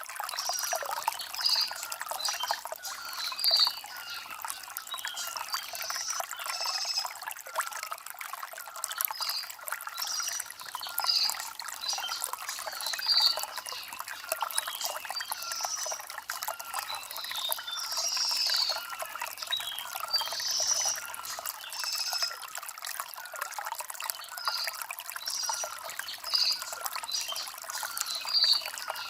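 Shallow stream water trickling and splashing over river stones, with a bird's short high chirps repeating about once a second.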